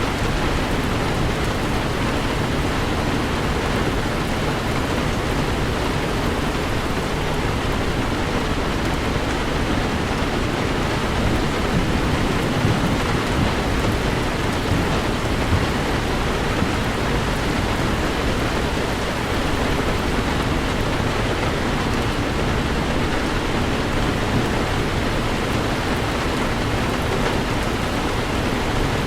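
Heavy rain pouring steadily on a Toyota 4Runner driving through a downpour, an even wash of rain noise over a steady low rumble.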